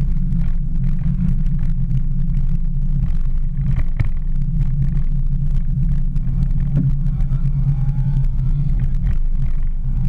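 Mini Cooper S engine running under load, with road noise, heard from inside the cabin during hard driving. There is a sharp click about four seconds in, and faint rising whines near the end.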